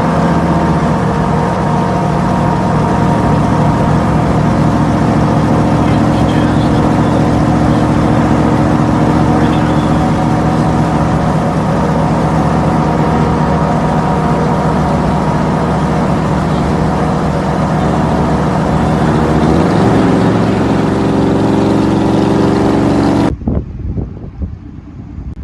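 Modified pickup truck's loud aftermarket exhaust with the engine running steadily, its pitch rising a little about twenty seconds in. The sound cuts off abruptly near the end.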